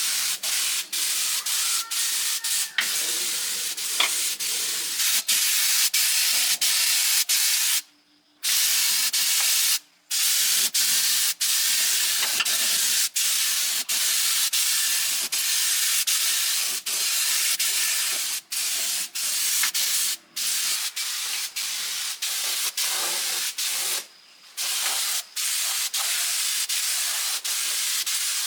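Steady hiss of compressed-air spraying on metal, broken by many brief cut-offs and a few longer gaps.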